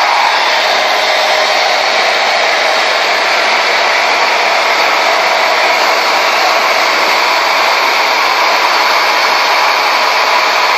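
Conair Yellow Bird pistol-grip blow dryer running continuously at a steady, loud whoosh of blown air with a faint steady whine.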